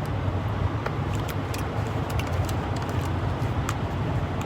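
Semi truck's diesel engine idling steadily, with a few faint clicks over it.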